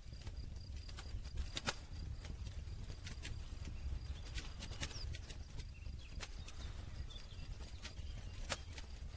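Campfire burning, with irregular sharp crackles and pops, a few a second, over a low steady rumble of the flames.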